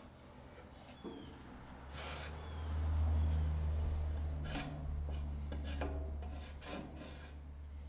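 Sheet steel being worked by hand: a few short scrapes and knocks of metal rubbing on metal. About two seconds in, a steady low hum starts and is the loudest thing heard.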